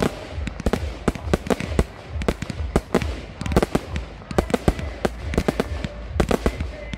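Fireworks going off: a rapid, irregular string of sharp bangs, several a second, over a steady low rumble.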